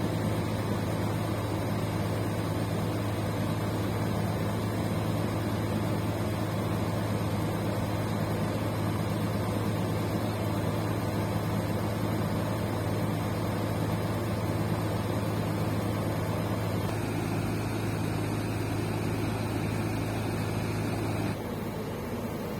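Scania K310 coach engine running steadily with a low, even hum. The sound shifts slightly about 17 seconds in and drops a little quieter about 21 seconds in.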